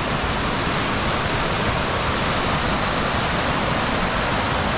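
Steady rushing of falling water, an even wash of noise with no breaks.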